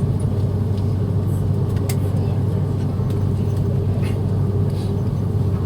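Airbus A330-300 airliner cabin noise: a steady low drone with a constant hum, a light click about two seconds in.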